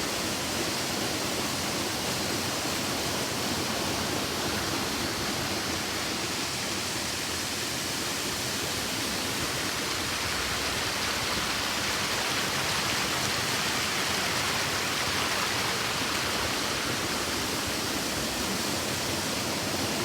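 Waterfall crashing into its pool: a steady, even rush of falling water.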